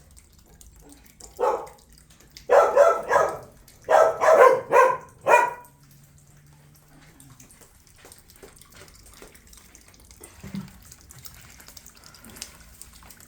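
A dog barking: a run of about seven sharp barks in the first half, then it goes quiet.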